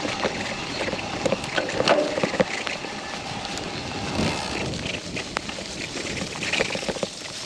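Mountain bike riding down a wet, muddy trail: steady tyre and wind noise with frequent rattles and knocks from the bike.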